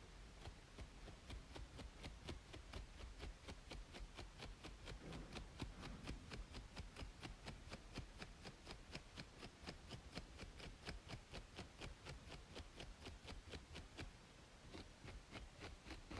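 Quick, rhythmic scratching strokes on a braided scalp, about four to five a second, that thin out near the end, over a steady white-noise hiss.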